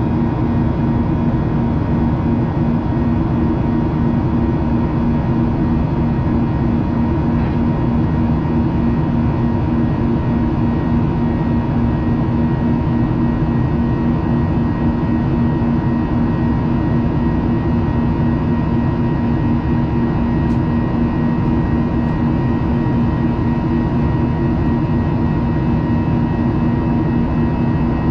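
Jet airliner cabin noise in flight: an even roar of engines and airflow with a steady low hum and a thin higher tone running through it.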